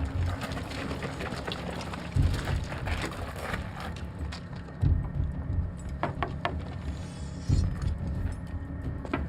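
Deep thuds repeating evenly about every two and a half seconds over a steady low hum, with a few sharp clicks around six seconds in and near the end.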